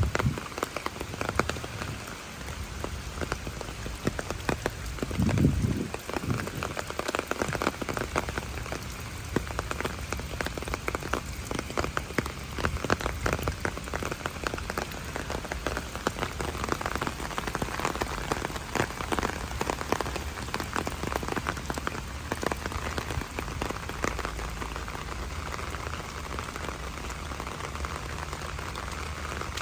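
Steady rain falling, with dense close drops ticking on surfaces throughout. A short low rumble comes about five seconds in.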